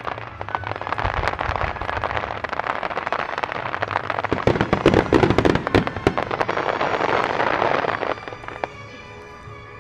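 Finale barrage of aerial fireworks: a dense run of bursts and crackles, loudest about halfway, thinning out near the end, with music playing along. The shells are fired in time with the music.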